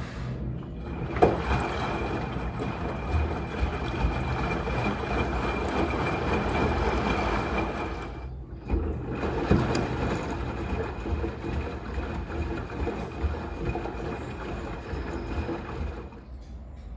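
Steady rushing of water with a thin, steady high tone above it, broken off briefly about eight seconds in.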